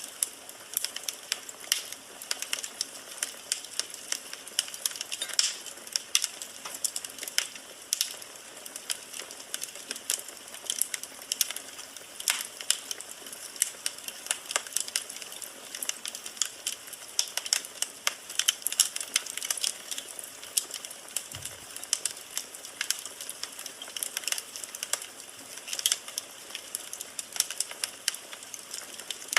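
Firewood burning in a fireplace and crackling: irregular sharp pops and snaps over a soft hiss.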